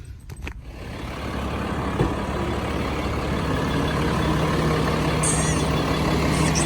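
Semi truck's diesel engine running steadily after a click, building up over the first couple of seconds, with short high hisses near the end.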